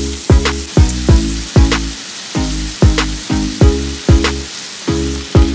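Meatballs and onions sizzling as they brown in an Instant Pot's inner pot, under louder background music with a steady, deep drum beat and bass.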